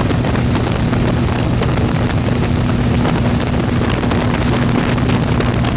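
Steady drone of a light aircraft's engine and propeller, a constant low hum, mixed with rushing wind noise on the microphone.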